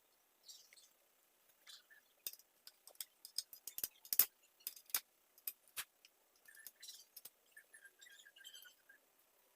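Small metal parts or tools clinking and tapping, a quick run of sharp clicks from about two seconds in until about six seconds, with lighter scraping and rustling before and after.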